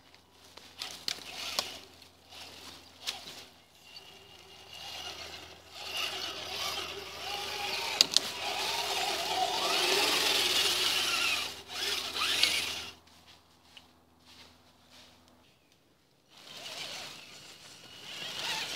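Radio-controlled mud truck driving off-road, its motor and tyres loudest from about six to twelve and a half seconds in, then dropping away.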